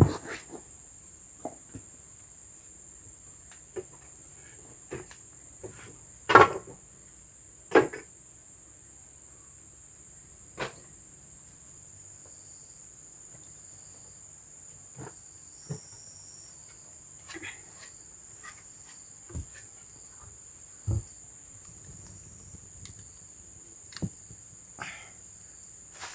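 Steady high-pitched drone of forest insects, with scattered knocks and rustles from handling things nearby, two louder knocks about six and eight seconds in.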